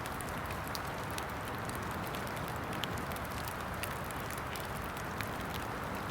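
Steady rain falling, an even hiss, with scattered sharp little ticks and crackles over it.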